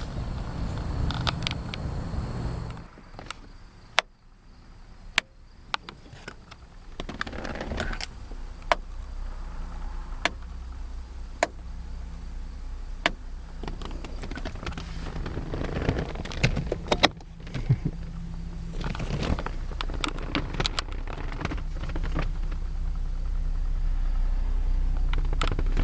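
1965 Rolls-Royce Silver Cloud III's V8 engine idling with a steady low hum, dipping in level a few seconds in, and a string of sharp clicks every second or so.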